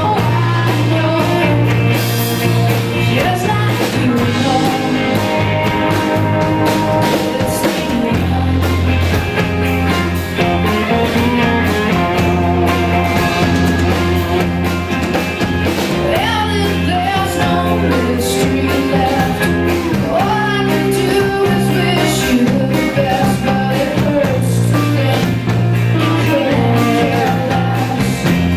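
Live rock band playing, with drums, sustained bass notes and guitar, and a singing voice at times.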